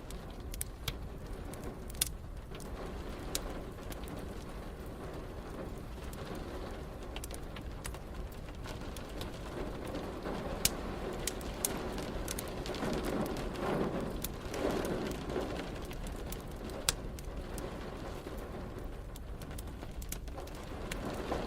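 Wood fire crackling with scattered sharp pops over a steady hiss of rain, and a low swelling sound about two-thirds of the way through.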